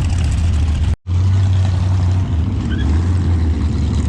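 Vintage race car's engine running steadily, heard from inside the car with wind noise. The sound cuts out for an instant about a second in, then resumes.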